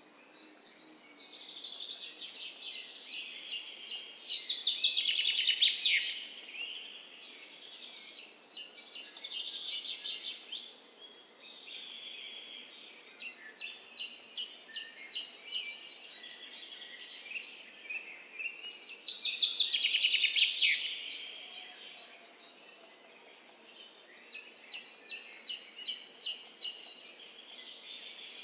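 A songbird singing, with a phrase of rapid high notes every few seconds and faint outdoor background noise between the phrases.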